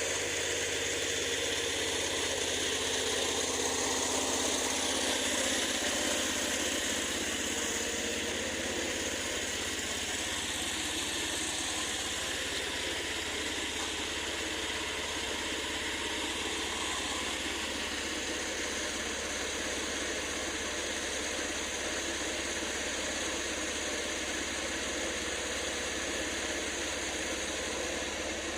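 A vehicle engine idling steadily, with no change in speed.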